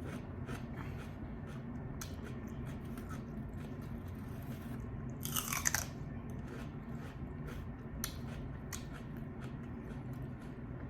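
Close-miked chewing and biting of crispy fried chicken, a run of small crunching clicks with one louder crunch about halfway through.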